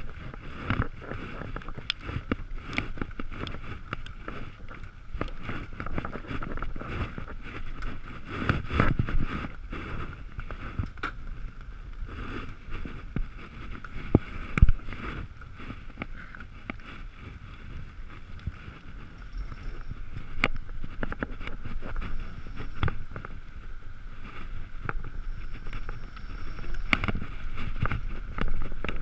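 Riding noise of an Ekoway ML5000 electric vehicle in the rain: a steady rumble of wind and wet road with frequent clicks and knocks. A faint high whine comes and goes a few times in the second half.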